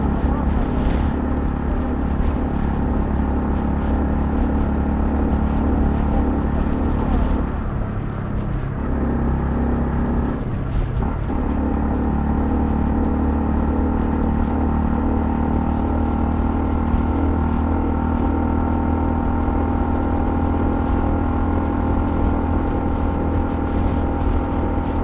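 Honda CL250's single-cylinder engine running steadily under way. It eases off briefly about eight seconds in, then settles back to a steady note a few seconds later.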